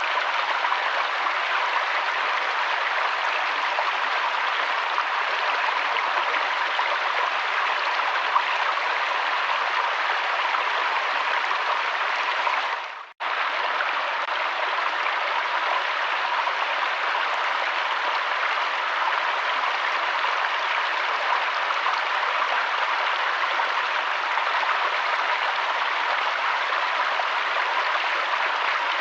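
Steady rush of flowing river water. It dips out for a moment about halfway through and comes straight back.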